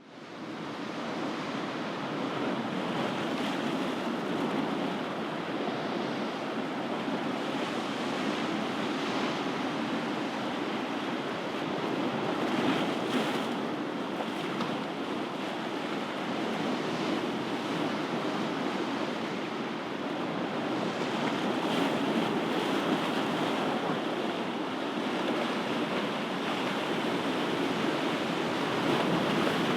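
Ocean surf washing onto the shore in a steady rush that swells and eases gently, fading in during the first second.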